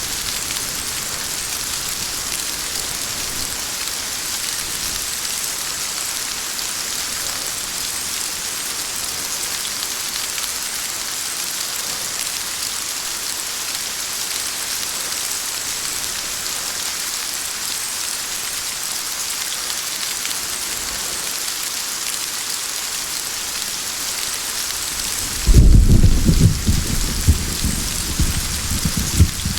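Steady heavy rain hissing, then about 25 seconds in a sudden loud thunderclap breaks in, followed by several rumbling low aftershocks over the last few seconds.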